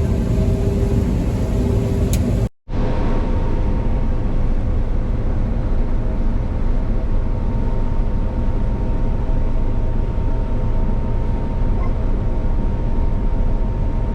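Combine harvester running steadily while harvesting soybeans: a loud, constant low rumble with a few steady hums on top. It cuts out abruptly for a moment about two and a half seconds in, then resumes with a slightly different hum.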